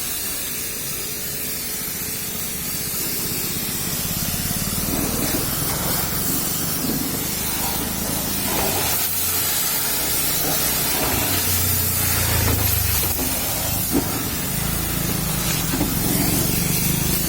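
Pressure-washer jet spraying water onto a car's bodywork: a steady hiss of spray.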